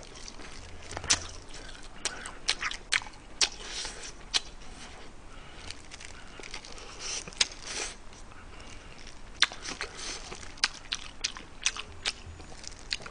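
Close-miked chewing and biting of crispy fried chicken: irregular sharp crunches, some louder than others, at an uneven pace.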